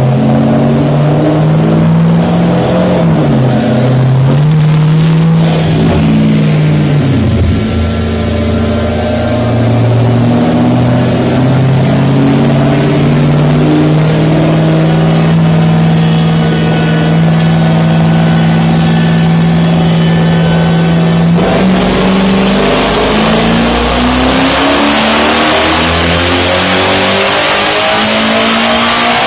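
Twin-turbocharged Mustang engine running on a dyno. Its note drops in steps a few times early on, holds a steady pitch for a long stretch, then climbs steadily into a pull near the end, with a high turbo whine rising alongside.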